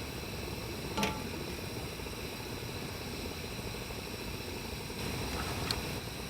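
Steady hiss of background noise, with one light clink about a second in and a fainter tick near the end.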